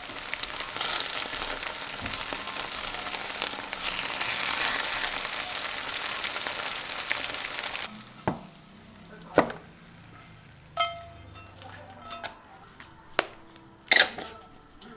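Food sizzling as it fries in a pan, a dense crackle that stops about eight seconds in. After that come a few separate knocks and scrapes of a spatula against the pan and a plastic container as the fried food is moved across.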